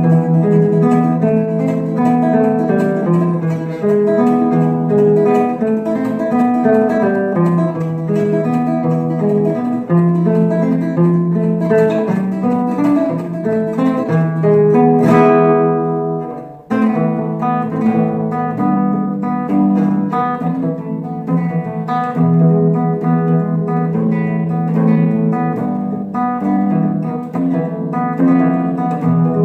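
Music: a fast instrumental flamenco-style acoustic guitar passage with rapid plucked and strummed notes, broken by a brief pause about sixteen seconds in.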